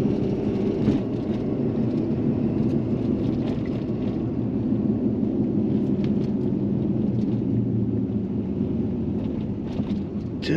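Tow truck driving at road speed, heard from inside the cab: a steady engine drone over road noise.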